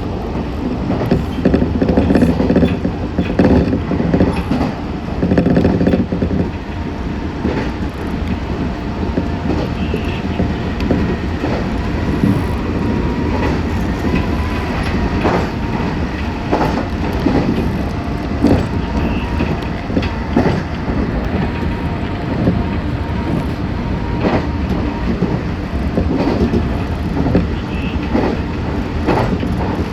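Meitetsu 6500 series electric train running on the line, heard from inside the car: a steady rumble of running noise, broken by frequent sharp clicks of the wheels over rail joints.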